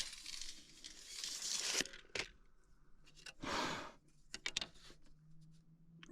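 Handling noises: two stretches of rustling, scraping noise, each a second or two long, with a few sharp clicks between and after them.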